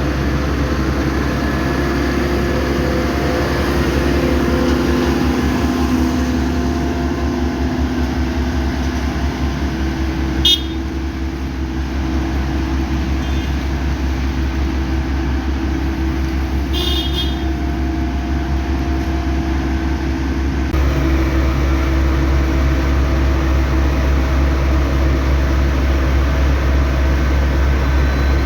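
Motor vehicle driving, its engine and road noise running steadily and loudly, with two short horn toots about ten and seventeen seconds in.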